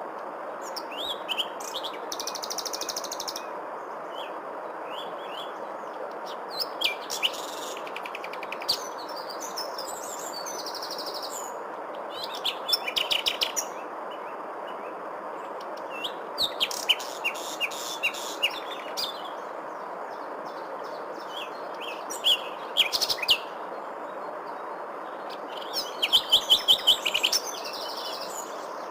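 Small birds chirping in scattered bursts of quick high notes and rapid trills, the busiest bursts about 13 s in, 17 to 19 s in and near the end, over a steady background hiss.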